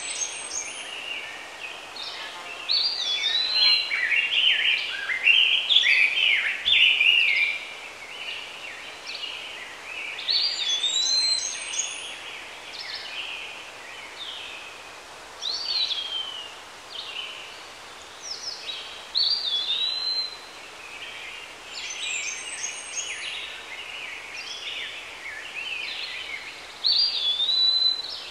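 Songbirds singing, with chirping, sweeping phrases that come back every several seconds, over a steady background of outdoor noise.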